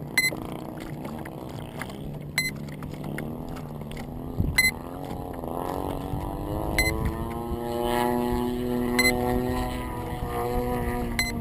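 Electric motor and propeller of an FPV radio-controlled aircraft, picked up by the onboard camera. Its pitch swoops down and back up as the throttle changes, then holds steady over the second half, with a rush of noise early on and a sharp click about every two seconds.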